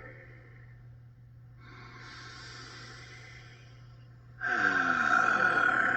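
A man's slow deep breath: a soft, airy breath in lasting about two and a half seconds, then a loud, voiced sighing breath out with falling pitch, a drawn-out pirate "arrr" exhale, over a steady low hum.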